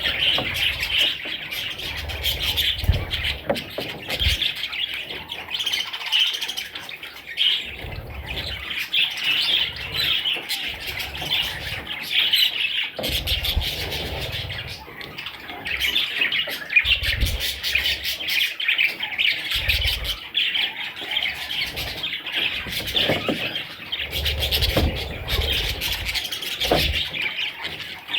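Budgerigar chicks chirping and squawking without a break: a dense chatter of many overlapping high calls, with occasional low bumps.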